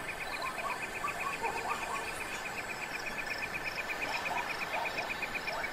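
Chorus of animal calls: one caller repeats a rapid, even pulse about ten times a second over a steady high trill, with scattered shorter chirps and calls around it.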